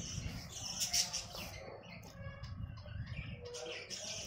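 Small birds chirping repeatedly, many quick high chirps, over a low rumbling noise.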